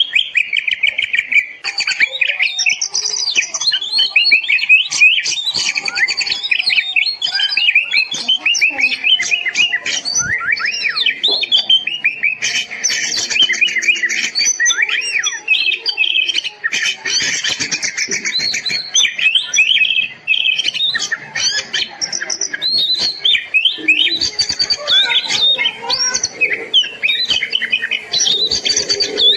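Oriental magpie-robin (kacer) singing continuously and energetically: a rapid, varied run of whistles, warbles and sharp chirps with hardly a pause.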